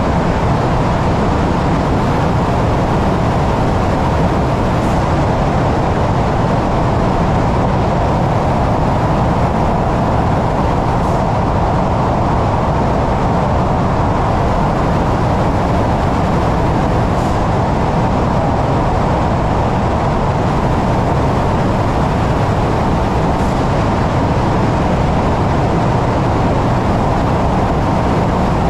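ÖBB Railjet passenger train running at speed through a long tunnel, heard from the driver's cab: a loud, steady rumble of wheels on rail and air, closed in by the tunnel walls. A faint tick comes about every six seconds.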